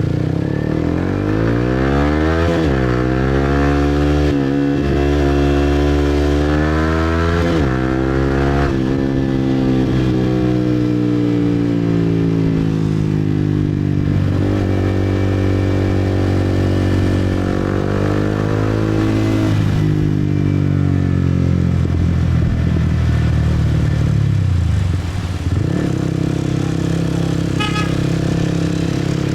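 Motorcycle engine under way, revving up in several rising sweeps with short drops between them as it shifts up through the gears, then slowing and picking up speed again twice.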